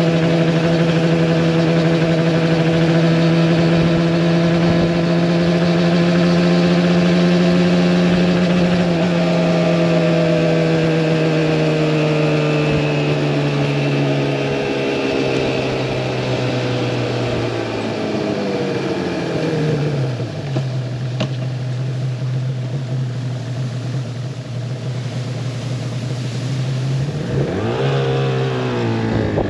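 Yamaha R1-Z's 250cc two-stroke parallel twin running steadily under way. Its note then drops in steps as the bike slows, holds at a lower steady pitch, and rises and falls briefly near the end.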